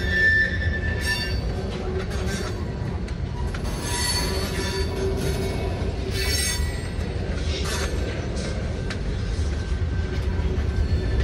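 Freight train of covered hopper cars rolling past, a steady low rumble of wheels on rail with high wheel squeals coming and going several times.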